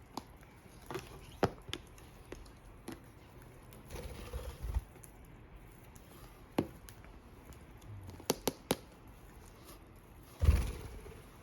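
Fire crackling softly: scattered, irregular sharp pops and snaps, with a dull low bump about four seconds in and another near the end.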